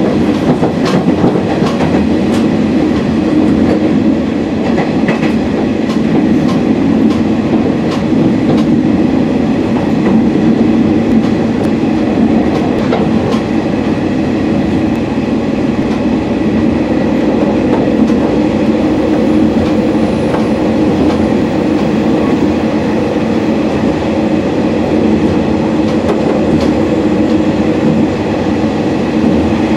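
Running sound of a local train on the Uetsu Main Line, heard from inside the carriage: a steady rumble of wheels on rail, with a click now and then as the wheels cross rail joints.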